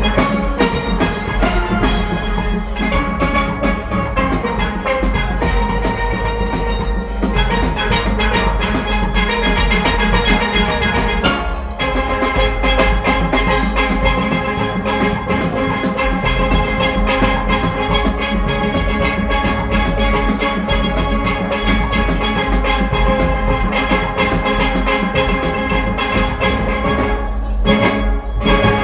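Steel orchestra playing: a full band of steelpans carrying the melody and chords over drum kit and percussion keeping a steady beat. Near the end the music breaks into short stops.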